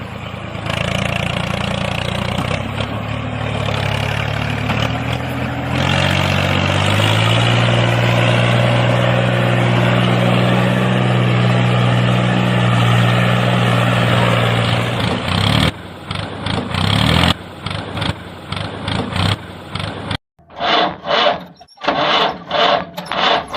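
An engine running with a steady low hum that steps up in pitch about six seconds in. In the last several seconds it turns choppy and breaks into rapid pulses, about three or four a second.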